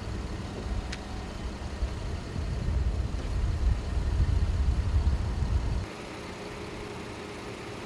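Ford Police Interceptor idling: a low rumble that swells toward the middle, with one sharp click about a second in. Near six seconds it drops suddenly to a quieter steady hum.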